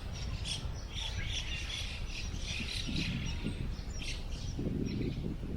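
Small birds chirping and twittering in quick repeated calls over a steady low rush of wind, which swells near the end.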